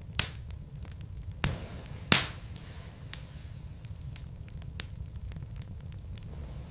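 Wood fire burning in a fireplace: a steady low rumble of flames with crackles and sharp pops from the burning logs, three louder pops in the first two seconds, the last the loudest.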